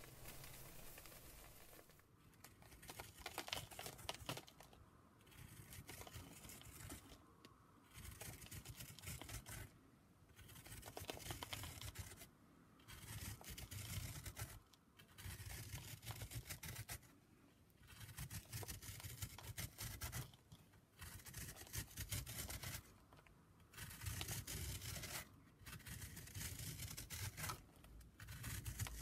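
Block of gym chalk being shaved in repeated crunchy, crackly strokes, each a second or two long, with short pauses between them, about one stroke every two seconds.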